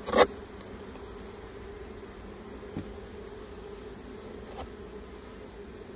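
Honeybees buzzing as a steady hum around an open hive, with one sharp knock about a quarter second in and a couple of faint ticks later.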